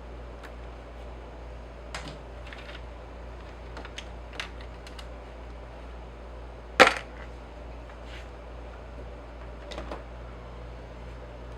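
Scattered light clicks and knocks, with one sharp, much louder knock about seven seconds in, over a steady low hum.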